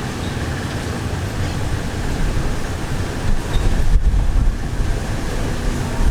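Passenger train running along the track, heard from inside the carriage: a steady rumble of wheels on rails with rushing air, and a louder low rumble about four seconds in.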